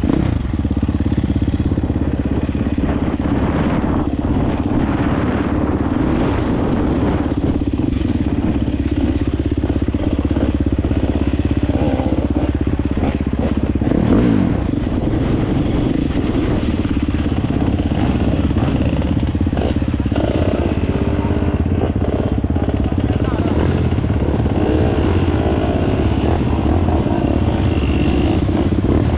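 Dirt bike engine running steadily, with a short jump in level about halfway through.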